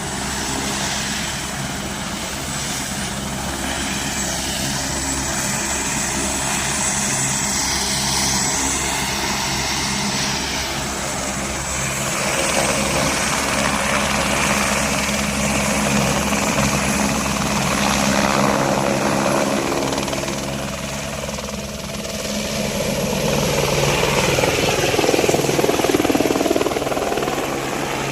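Passenger helicopter running, its rotor blades chopping evenly under a thin, high, steady engine whine. The sound swells and eases a few times, loudest a few seconds before the end.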